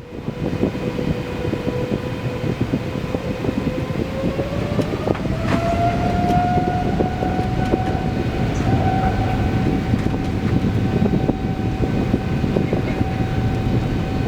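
Boeing 777-300ER cabin during the takeoff roll: the GE90 engines spool up, their whine rising in pitch a few seconds in and then holding steady at takeoff thrust. Underneath is a continuous rumble with rattling from a rough runway, a shaky takeoff.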